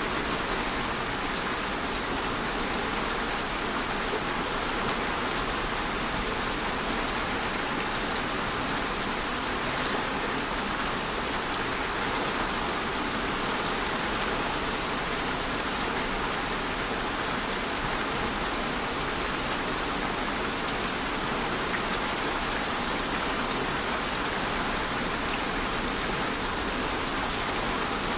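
Steady rainfall with a dense patter of raindrops on a surface and a few separate drop ticks.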